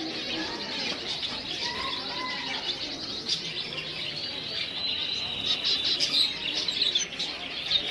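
Many small birds chirping at once, a dense unbroken chatter of overlapping high calls with a few lower notes mixed in.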